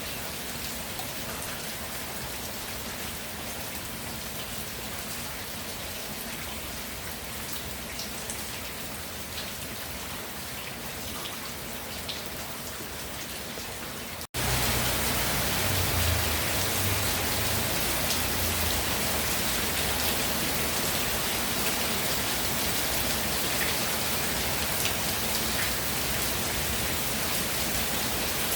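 Steady rain falling. About halfway through the sound cuts out for an instant and comes back louder and fuller, with a brief low rumble just after.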